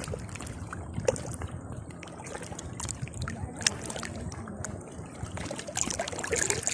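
Sea water lapping and sloshing, with many small splashes and trickles, a little louder near the end.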